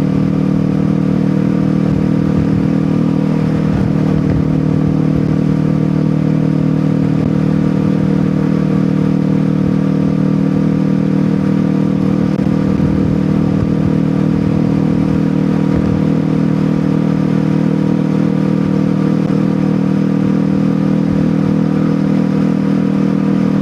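Kawasaki Ninja 400's parallel-twin engine through an Akrapovic exhaust, running at steady, unchanging revs.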